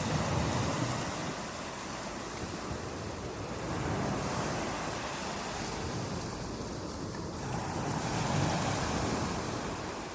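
Rushing water that swells and falls back in slow washes, about every four seconds.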